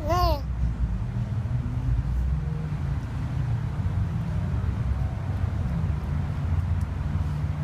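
A brief, high, rising-then-falling squeak-like call right at the start, over a steady low rumble that carries on throughout.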